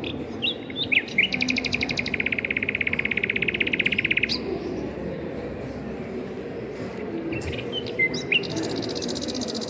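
A small songbird singing: a few short chirps, then a long, rapid, even trill lasting about three seconds; near the end another phrase of chirps leads into a second, higher trill.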